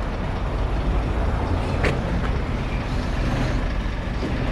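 Scania car transporter's diesel engine running steadily, with a sharp click about two seconds in and a fainter one just after.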